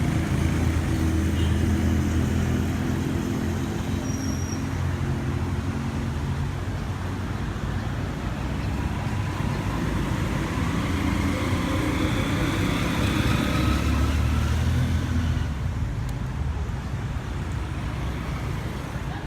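KTM Duke 690's single-cylinder engine running through an Arrow aftermarket exhaust, a steady low exhaust note with some rising pitch changes about halfway through.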